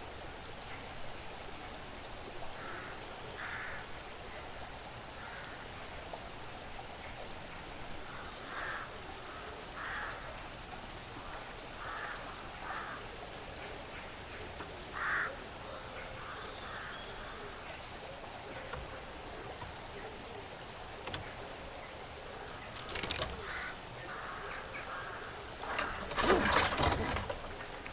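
Woodland ambience: short bird calls repeat every second or two over a soft steady background hiss. Near the end come loud bursts of rustling and crackling, like an animal moving or feeding among dry leaves.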